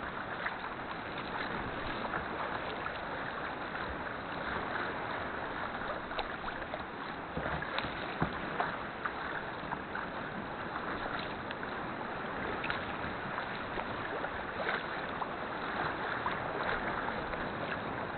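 Sea water splashing and lapping around a kayak on the move, with small splashes and drips scattered throughout.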